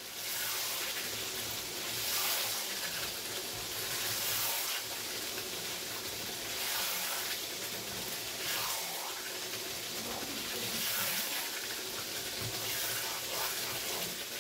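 Chicken karahi sizzling in a wok while a spatula stirs it. A steady hiss swells every couple of seconds as the pieces are turned.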